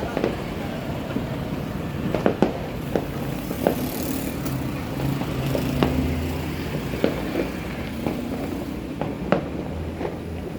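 New Year fireworks going off in separate sharp bangs and pops at irregular intervals, about ten in all, over a steady low rumble.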